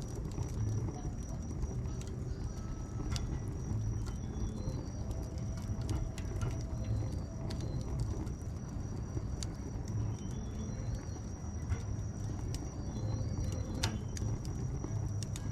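Wood bonfire burning, crackling with scattered sharp pops over a steady low rumble.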